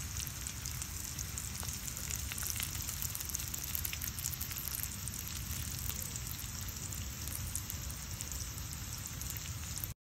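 Sliced mushrooms and yellow potatoes frying in a cast iron skillet: a steady sizzle with scattered small crackles and pops.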